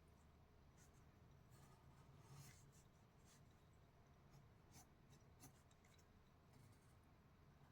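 Faint, irregular scratching strokes of a drawing tool on paper during sketching, over a low steady hum.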